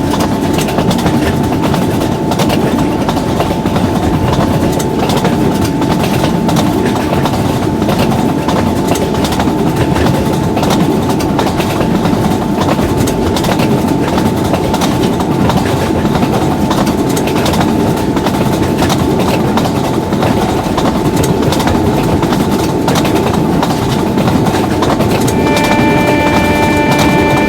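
A long train passing at speed: a loud, steady rumble of wheels on rail, dense with rapid clacking over the rail joints, with a thin steady tone above it. Near the end a chord of several steady tones comes in over the noise.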